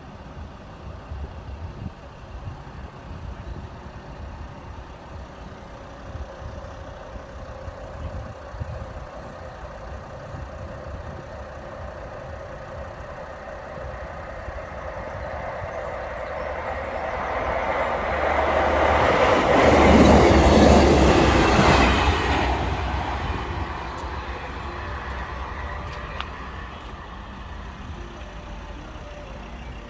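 Class 158 diesel multiple unit passing over the crossing: it grows louder as it approaches, is loudest a little past two-thirds of the way through, then fades as it moves away.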